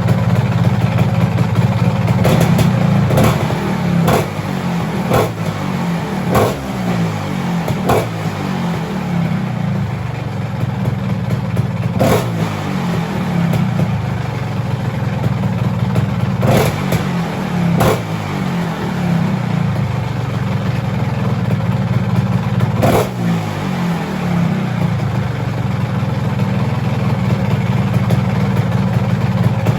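Vespa PX200's 200cc two-stroke single-cylinder engine idling through a JL Racing exhaust, blipped about ten times. Each blip is a quick rev that falls back to idle; the blips come close together in the first few seconds, then a few seconds apart.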